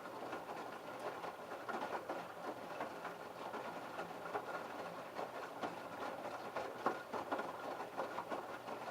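LG F1222TD direct-drive front-loading washing machine's drum turning during the babycare prewash, wet laundry tumbling and water sloshing with many small irregular clicks and knocks.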